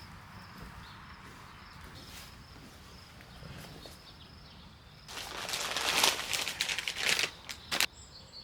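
Quiet outdoor ambience, then about five seconds in, close rustling and crunching for about three seconds.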